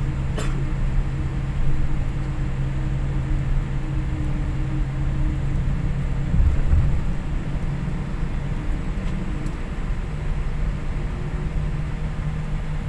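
Steady low drone of a Boeing airliner heard from inside the cabin, engines and air systems running, with a steady hum. A brief click comes about half a second in and a low thump about six and a half seconds in.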